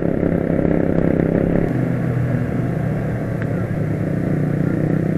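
Motorcycle engine running steadily while riding at cruising speed, with wind and road noise.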